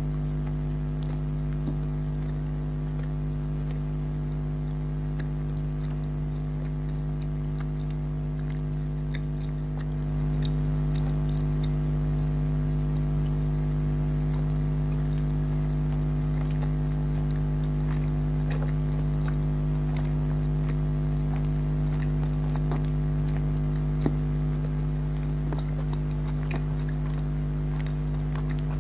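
Jelly candy being chewed and bitten close to the microphone, heard as faint scattered wet clicks. Under it runs a steady low electrical hum that is the loudest sound and steps up slightly about ten seconds in.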